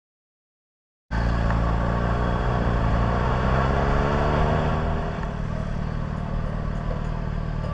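Motor vehicle engine and road noise cutting in abruptly about a second in, the engine's pitch sliding as it changes speed over the next few seconds, then running steadier and a little quieter.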